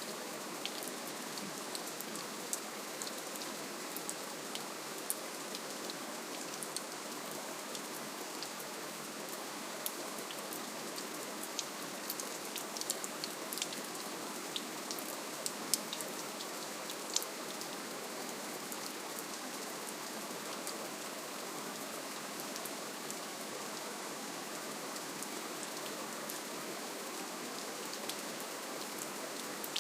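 Soft, steady rainfall: an even hiss of rain with many small drop ticks scattered through it, a few sharper ones around the middle.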